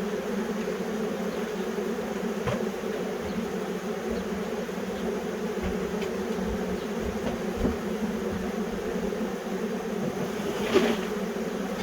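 A honey bee swarm buzzing as a steady, dense hum. One sharp knock sounds near the end.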